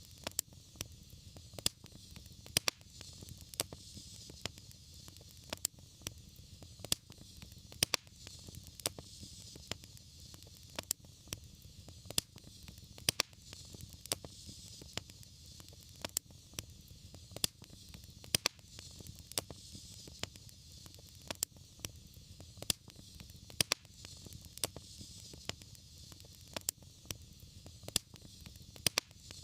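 Fireplace fire crackling, with frequent sharp, irregular pops over a steady hiss and a low rumble.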